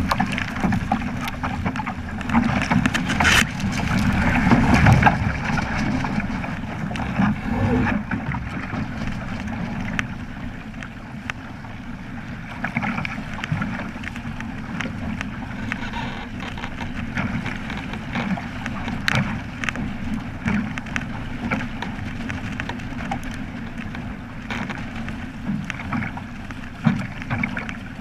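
Water splashing and rushing against a Flying Fifteen's hull under sail, with wind buffeting the microphone; loudest over the first few seconds, then settling to a steadier wash.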